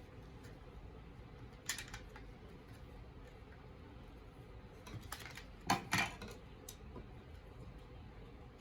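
Plastic parts of an Airfix Quickbuild snap-together kit being handled and pressed together: a few short clicks and knocks, two near two seconds in and a small cluster around six seconds in.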